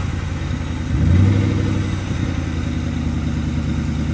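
Car engine running, just started on a borrowed battery because its own battery is dead; it picks up in pitch and loudness about a second in, then settles to a steady idle.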